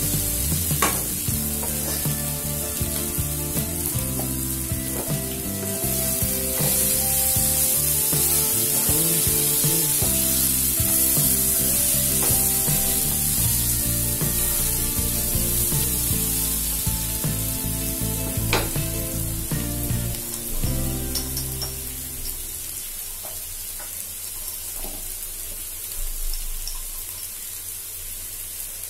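Chicken pieces and onion masala sizzling as they fry in a non-stick pan, stirred with a spatula that clicks and scrapes against the pan now and then. Background music plays under it and drops out about three-quarters of the way through.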